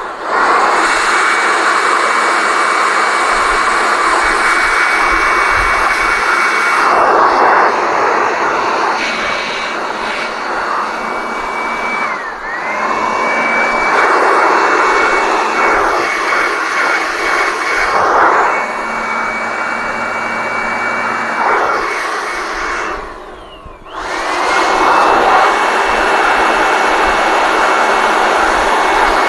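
Hot air blower running steadily with a high motor whine, used to dry a coat of filler. Its pitch dips briefly about twelve seconds in; near two-thirds through it cuts off, then starts again, the whine rising back to speed.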